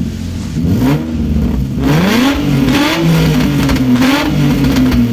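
2005 Infiniti G35's 3.5-litre VQ35DE V6 being revved through an exhaust with Berk resonated test pipes and a muffler delete: a short blip, then a longer climb in revs that is held high with small dips.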